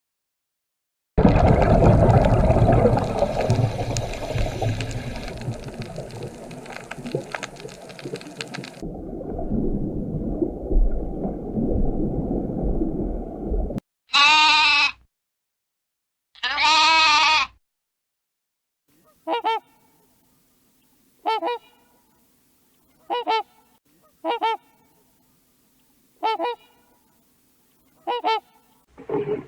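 Separate animal clips cut together. A loud noisy stretch and a duller one are followed by two long wavering calls, and then a run of seven short honking calls from a goose or duck, spaced about one and a half to two seconds apart.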